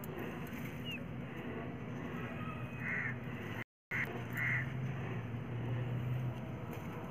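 A bird cawing: three short calls about half a second to a second apart near the middle, over steady outdoor background noise.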